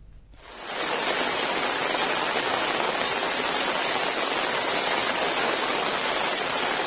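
Heavy rain falling, a dense steady hiss that fades in about half a second in.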